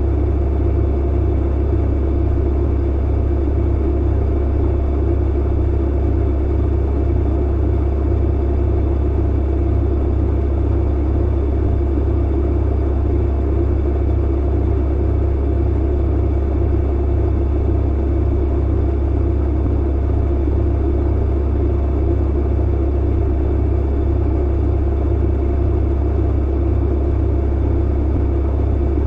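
Clothes dryer running steadily: a constant low motor hum and drum rumble with no changes or thumps.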